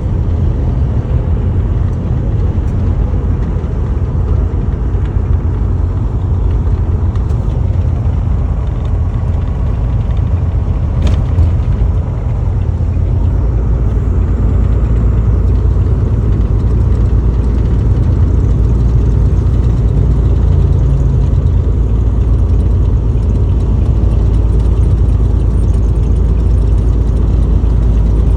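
A car driving, with a steady low rumble of engine and road noise. A single sharp click comes about eleven seconds in.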